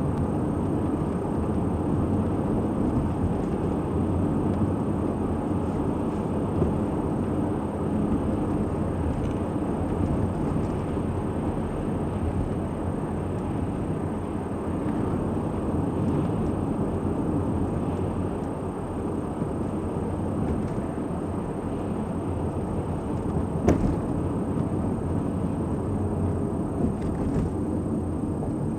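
Steady road and engine noise inside a moving car, with one sharp click about 24 seconds in.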